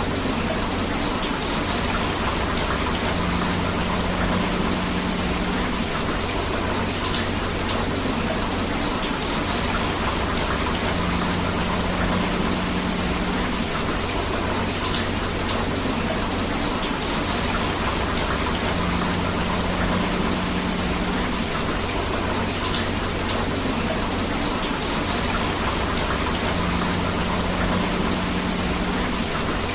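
Steady rain and flowing river water, an even dense hiss with no breaks. A low hum swells in for a couple of seconds about every eight seconds.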